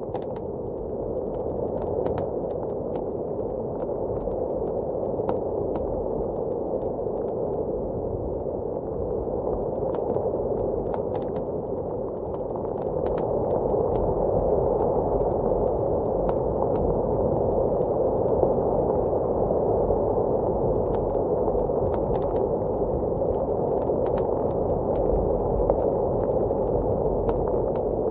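Wood fire crackling in a fireplace with scattered sharp pops, over the steady muffled rush of blizzard wind, which swells a little about halfway through.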